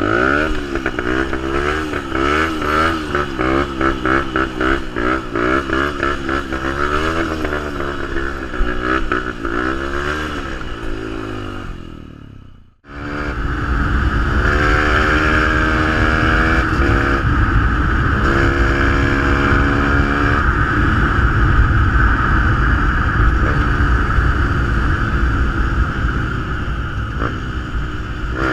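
Fantic 125 supermoto's single-cylinder engine through a GPR aftermarket exhaust, its pitch wavering up and down for the first dozen seconds and fading, then cutting off abruptly about thirteen seconds in. It comes back loud and steady, its pitch rising and dropping back several times.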